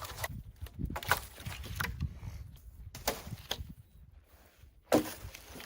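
Wooden poles and branches knocking and cracking as a shelter frame is handled: a few sharp knocks at irregular moments, the loudest about five seconds in.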